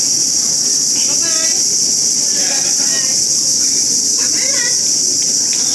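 Loud, steady insect chorus, a continuous high-pitched buzz, with faint voices underneath.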